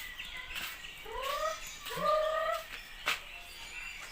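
A captive bird calling twice in rising notes, the second longer and held, with faint chirping from other birds behind. A sharp click sounds about three seconds in.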